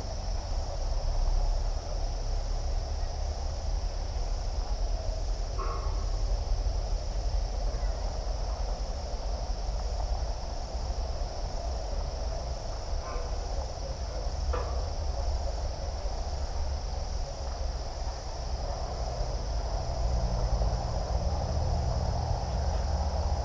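Insects making a steady high drone over a low rumble, with a few short chirps now and then.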